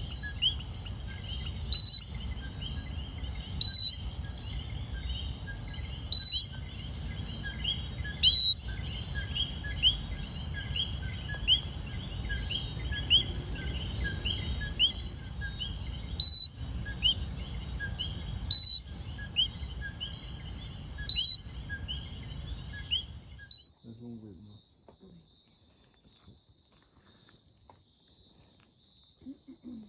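Night chorus of coquí frogs: many short, quickly repeated high chirps, with a louder call from a nearby frog about every two seconds. The chorus cuts off suddenly about 23 seconds in, leaving only faint calls.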